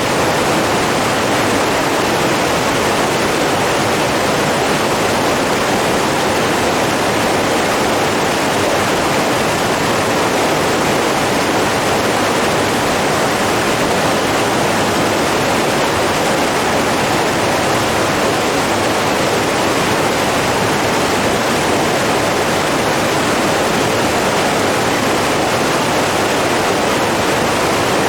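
Rushing water from a stream or waterfall: a loud, steady, even rush with no let-up or change.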